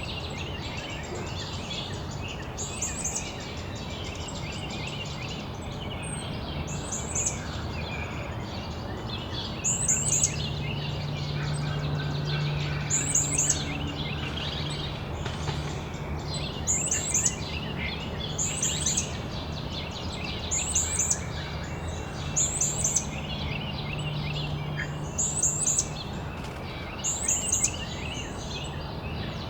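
Backyard songbirds singing and chirping, with one bird repeating a short, very high phrase every second or two over a busy mix of smaller chirps. A low steady hum sits underneath through the middle.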